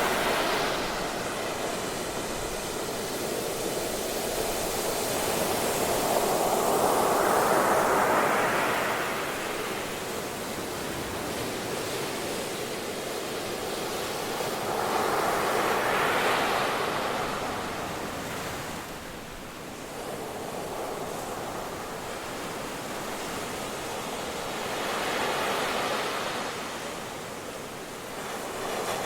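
Ocean surf breaking on a beach, a steady wash that swells and falls back as three waves crest about nine seconds apart.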